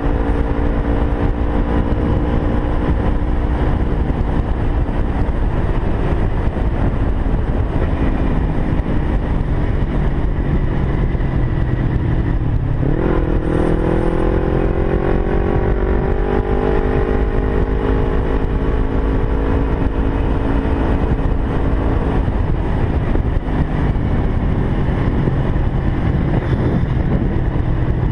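Kawasaki Ninja 250R's parallel-twin engine running under way, with heavy wind rush on a helmet-mounted microphone. About halfway through, the engine note dips sharply, then climbs steadily for several seconds as the bike accelerates, and eases off near the end.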